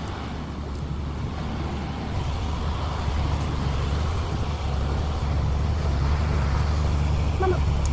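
Truck engine running with a steady low drone, growing slowly louder over the first several seconds.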